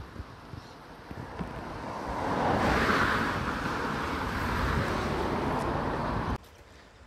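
Creek water rushing and rippling over rocks, a steady hiss that swells over the first couple of seconds and then cuts off abruptly near the end.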